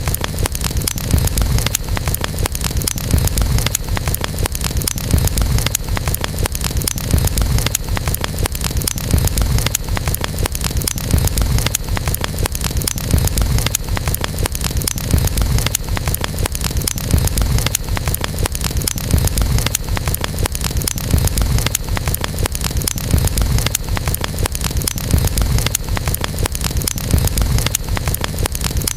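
Campfire crackling, with many sharp snaps and pops over a steady low rumble of the burning wood.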